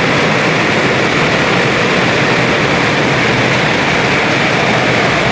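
Strong storm wind blowing hard, a loud, steady rush of noise without a break.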